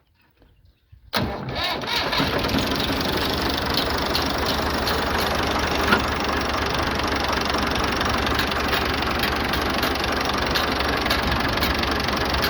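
Ford 3610 tractor's three-cylinder diesel engine starting about a second in, then running steadily.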